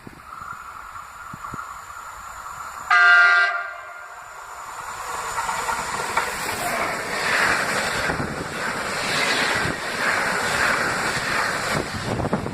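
A train sounds its horn in one short, loud blast just under a second long, then runs past with a growing rumble of wheels on rails.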